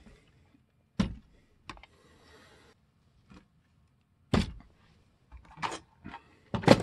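Sharp clacks and knocks of small plastic scale-model vehicles being handled and set down on a hard surface, five in all, the last the loudest, with a brief soft scuff about two seconds in.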